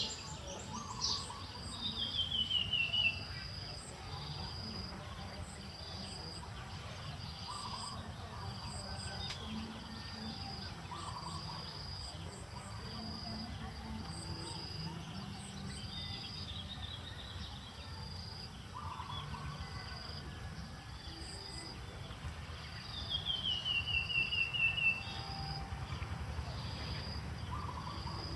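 Birds calling: a short high peep repeating about once a second, with a louder falling trill twice, over a low background rumble.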